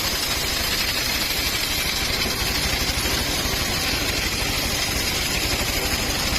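Engine-driven circular saw for cutting timber running steadily, with a rapid even pulsing low down and a steady hiss above it.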